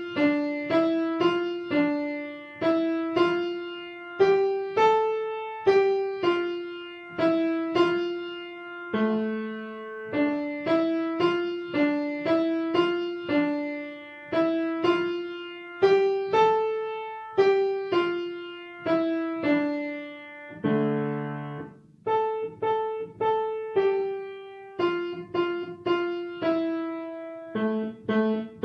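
Piano playing a simple beginner melody in D position with both hands, notes struck one after another at an even, unhurried pace. About two-thirds of the way through there is a short, denser low chord.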